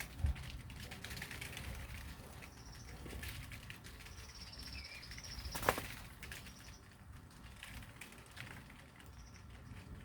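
Small birds fluttering their wings and giving thin, high, drawn-out peeps, several times, among small clicks and rustles, with one sharp knock a little past the middle.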